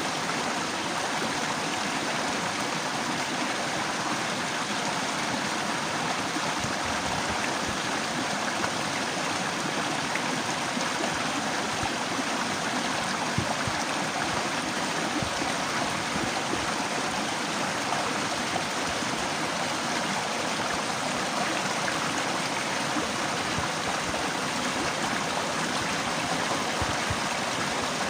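Running water rushing steadily, as from a stream or small waterfall.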